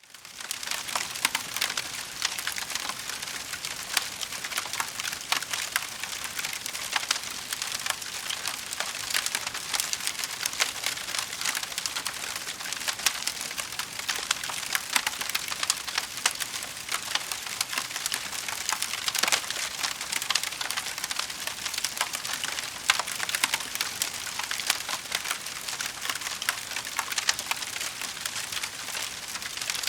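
Wood fire crackling in a fireplace: a dense, steady run of small pops and snaps with a few louder cracks, fading in over the first second.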